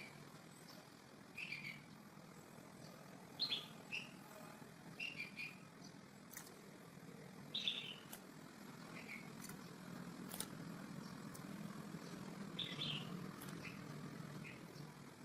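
A small bird chirping: short, high calls about every second or two, over a faint low rumble.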